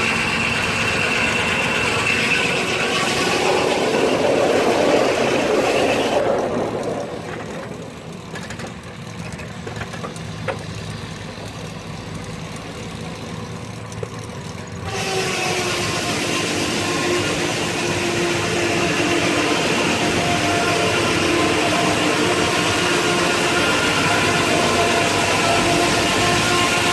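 Steam-powered sawmill, a 1926 Keck-Gonnerman steam traction engine driving the saw by belt, running steadily as a machinery drone with a steady hum. The sound drops sharply about six seconds in and comes back just as suddenly near the middle.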